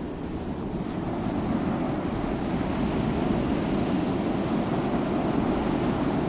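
Sea waves washing on the shore, a steady rush of surf, with a low rumble of wind on the microphone.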